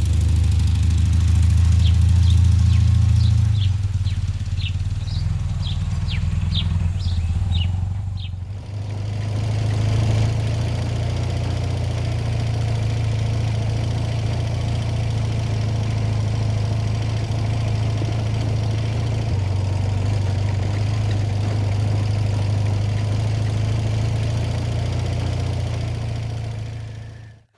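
Motorcycle engine running steadily, a low drone throughout, with a break about eight seconds in. A string of short, high chirps sounds over it in the first few seconds.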